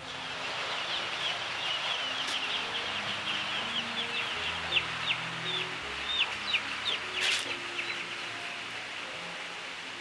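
Birds chirping in quick, high, thin peeps over a steady background hiss, with two sharp clicks, one about two seconds in and another around seven seconds.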